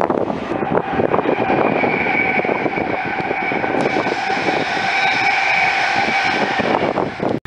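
Train at a station platform: wheel clatter over rail joints in the first second, then a steady high whine with a few held tones that cuts off abruptly near the end.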